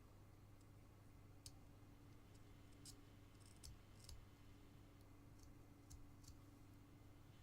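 Faint, scattered clicks of a carving knife cutting small chips from basswood, about eight over several seconds, over a faint steady low hum.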